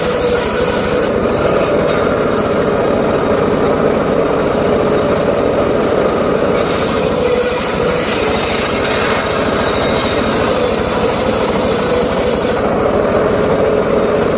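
Homemade circular saw running steadily while it cuts wood, with a steady machine drone and the rasp of the blade through the timber. The high hiss drops away for a few seconds twice, as the cut changes.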